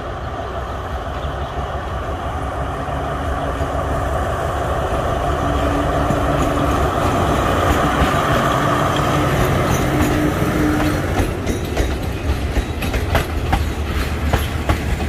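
Alstom diesel-electric locomotive with an MTU engine approaching and passing at speed, its engine growing louder with a steady tone. About twelve seconds in the locomotive is past and the passenger coaches follow, their wheels clicking in quick succession over the rail joints.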